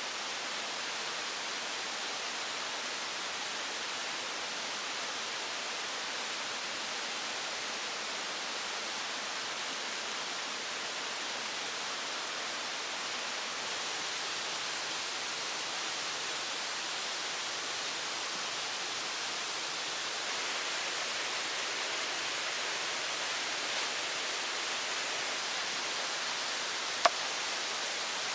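Steady, even rush of flowing water, with a single sharp click near the end.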